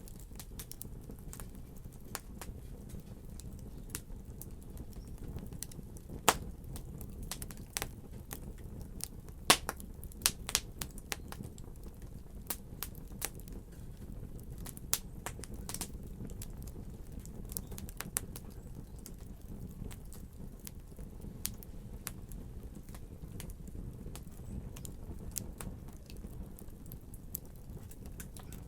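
Wood fire crackling: a low steady rumble of flame with scattered sharp pops and snaps at irregular intervals, the loudest about six and ten seconds in.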